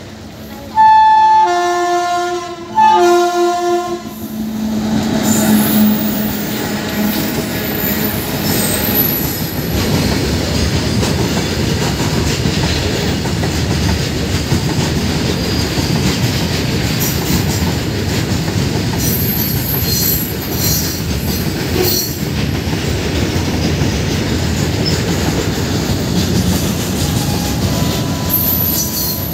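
Indian Railways WAG-7 electric locomotive sounding its horn in two loud blasts of several notes together, about a second and a half each. Then a long freight train of open wagons rolls past, with a steady rumble, wheel clatter and high wheel squeals here and there.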